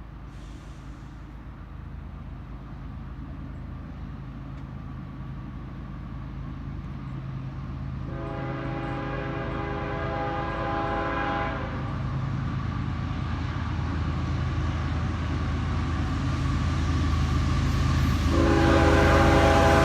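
Diesel freight locomotive approaching, its low engine rumble growing steadily louder, as its air horn sounds one chord for about three and a half seconds partway through and starts a second near the end.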